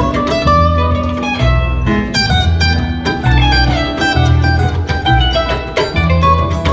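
Live band playing an instrumental jam: a guitar picks quick runs of notes over a pulsing bass line and drums.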